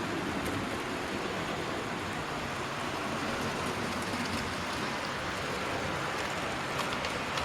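Model trains running on the layout's track: a steady rumble of wheels on rail, with a few faint clicks.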